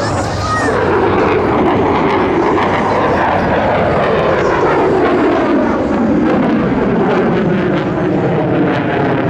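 F-35B Lightning II's single Pratt & Whitney F135 turbofan jet engine, loud and continuous as the jet makes a pass. The pitch rises over the first couple of seconds, then falls slowly.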